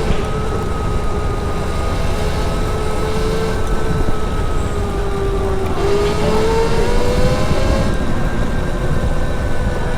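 Electric motorcycle motor whining steadily. Its pitch dips a little past halfway, then rises again as it speeds back up, over a low rumble of wind and road noise.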